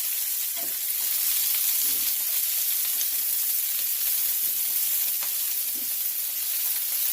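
Chopped onion, garlic and cumin seeds sizzling steadily in hot olive oil in a pot as they are stirred in, with a few faint knocks of the stirring utensil.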